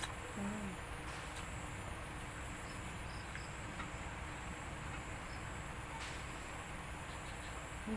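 Steady low background hiss with a few faint, short clicks scattered through it.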